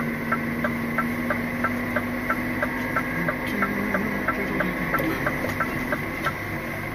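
Turn-signal indicator ticking steadily inside the lorry's cab, about three clicks a second, over the low steady hum of the engine running.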